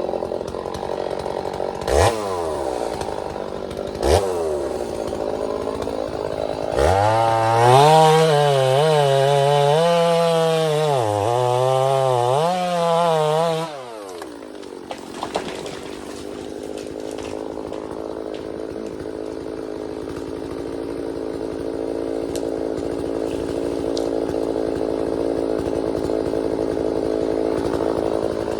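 Two-stroke chainsaw running. It is blipped twice, then held at high revs for about seven seconds with the pitch wavering up and down, then drops back to a steady lower run.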